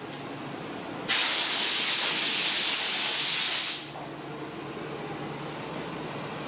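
Steam-wash nozzle releasing a jet of pressurised steam: one loud hiss that starts suddenly about a second in and stops after nearly three seconds. A low steady hum runs underneath.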